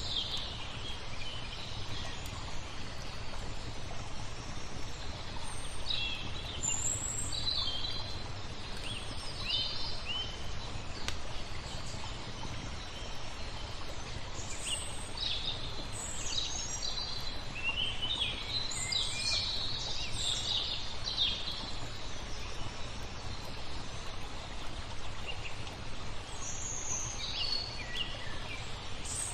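Songbirds chirping in short, repeated bursts over a steady background hiss of flowing water.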